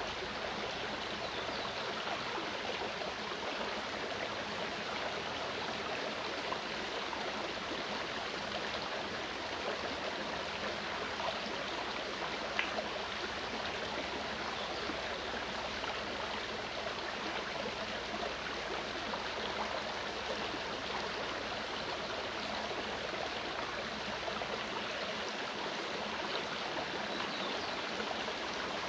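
Clear mountain stream flowing: a steady, even rush of water, with a faint brief click near the middle.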